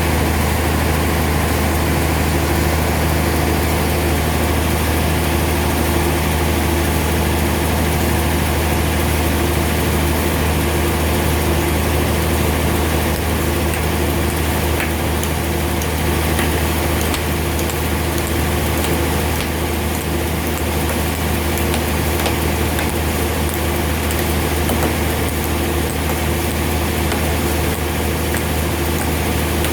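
Sawmill machinery running steadily with a deep, even hum and a few faint ticks.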